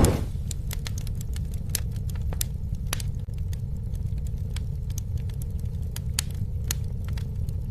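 Campfire burning: scattered sharp pops and snaps of burning wood over a steady low rumble of flame.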